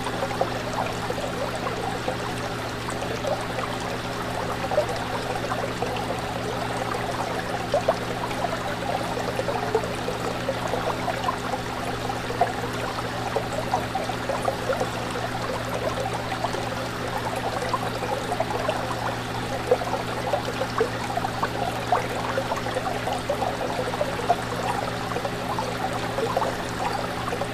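Fish tank water bubbling and trickling steadily, with many small splashes and pops over a steady low hum.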